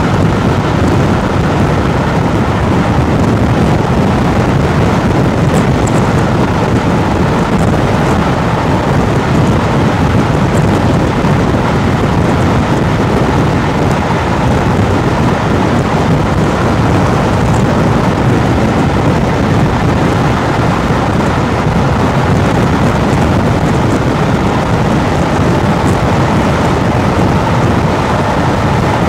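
Train running at speed: a steady, loud roar of wheels on rail and rushing air that holds the same level throughout.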